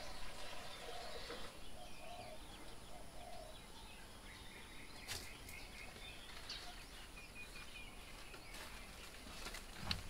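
Faint calls of several wild birds over outdoor background noise: a run of short mid-pitched notes in the first three seconds or so, then scattered high chirps and a quick series of short notes. Two sharp clicks stand out, about halfway through and near the end.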